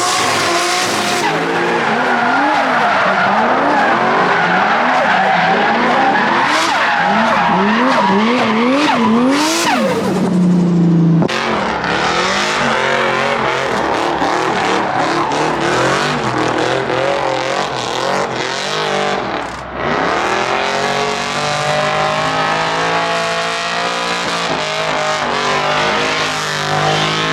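Drift cars sliding with tyres screeching while their engines rev rapidly up and down under throttle. There is an abrupt change about eleven seconds in, and later an engine drops off and revs back up.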